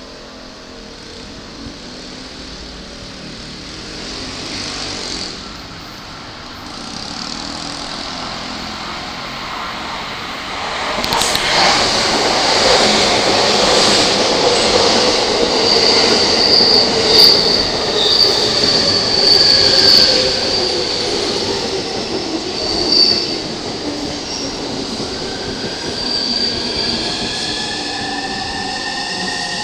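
An E231 series electric commuter train pulls into the platform and gets steadily louder as it runs in. About halfway through there is a high wheel-and-brake squeal and a slowly falling motor whine as it slows. Near the end, rising whining tones come in.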